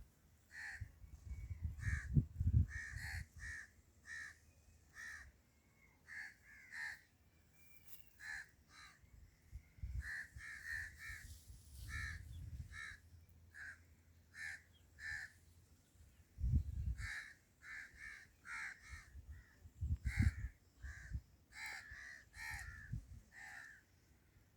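Birds calling, a long string of short calls in quick, irregular succession, with low rumbles now and then.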